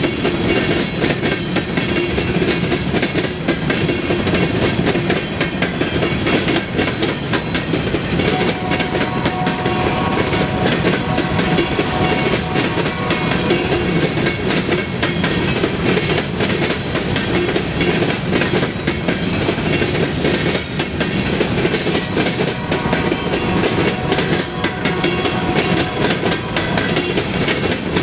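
Empty coal cars of a long freight train rolling past, their steel wheels clacking densely and steadily over the rails under a continuous rumble.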